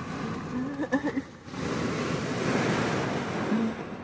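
Heavy rain beating on a car's roof and windows, with wind buffeting the car; a short pitched sound about a second in.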